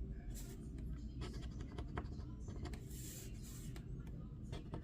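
Scratching the coating off a lottery crossword scratch-off ticket: a series of short scrapes and small clicks.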